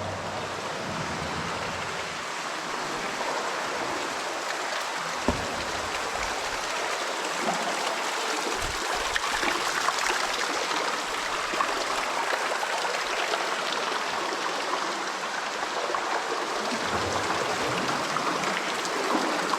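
Steady rushing of water pouring into a flooded mine, like a stream or small waterfall. Two brief dull knocks sound about five and nine seconds in.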